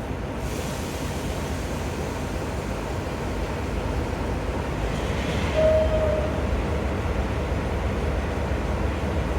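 A train running with a steady rumble. A brief high tone sounds about halfway through.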